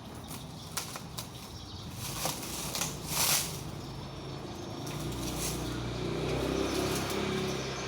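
Plastic packaging rustling and crinkling with scattered clicks, and a louder scratchy rasp about three seconds in. From about five seconds a low, steady pitched hum, like a motor, runs underneath.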